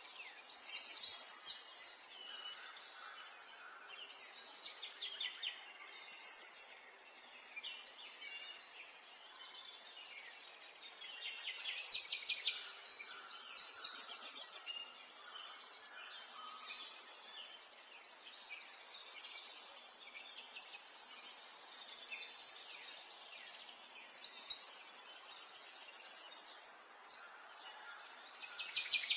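Songbirds chirping and trilling in short, rapid, high phrases that come every second or two, one bird singing louder about halfway through, over faint outdoor background noise.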